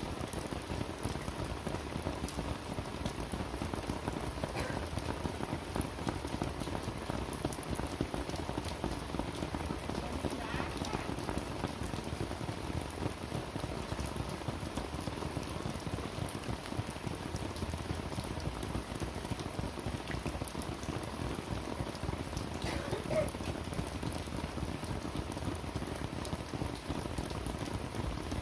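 Steady heavy rain falling and pattering on surfaces, with a few faint brief sounds over it.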